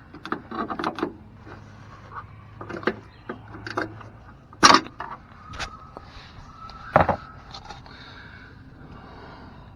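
Hand tools working on the step-rail mounting bolts under a pickup: scattered metallic clicks and knocks, with two loud metal clanks that ring briefly, about halfway through and about seven seconds in.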